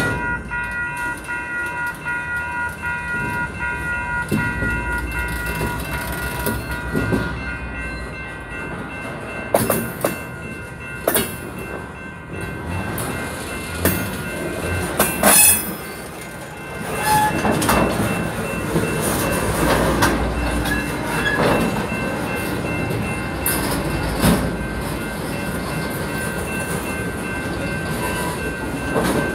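Freight train of loaded centerbeam lumber cars rolling through a grade crossing: steady rumble and wheel clatter with several sharp metallic clanks, the loudest about fifteen seconds in. A crossing signal bell rings steadily over it.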